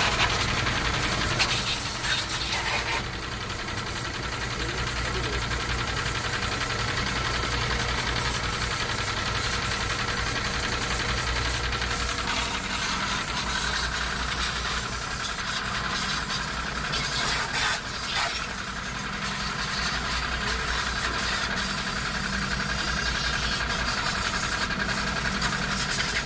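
A motor runs with a steady hum under a constant hiss of spraying water; the hum changes pitch about twelve seconds in.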